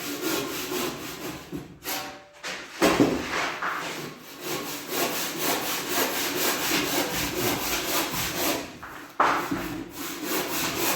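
Hand saw cutting with rhythmic back-and-forth strokes, with a brief pause about two seconds in.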